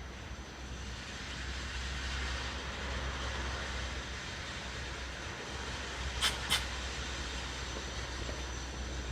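Train approaching on the line: a low rumble and a rushing noise that grows over the first couple of seconds, with a steady high-pitched whine above it. Two sharp clicks in quick succession about six seconds in.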